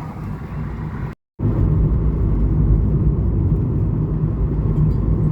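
Steady low rumble of a car driving on the road. It starts after a brief silent cut about a second in.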